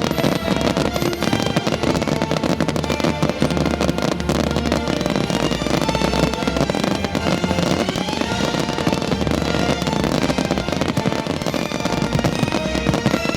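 Fireworks going off in rapid succession, dense bangs and crackling, over loud music.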